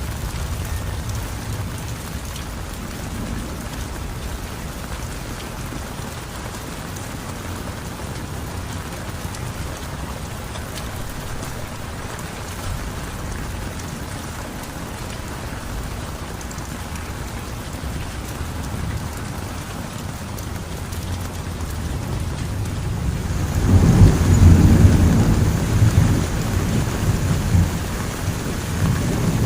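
Steady heavy rain falling. About 23 seconds in, a loud low rumble of thunder rolls in, strongest for a few seconds and then fading but still rumbling at the end.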